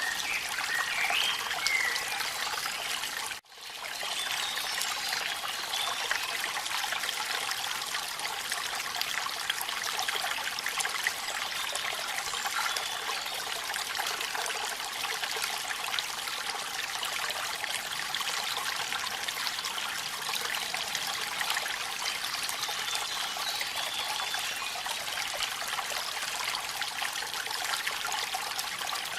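Steady hiss and splash of falling water, rain and a waterfall together. It cuts out for a split second about three and a half seconds in, then resumes.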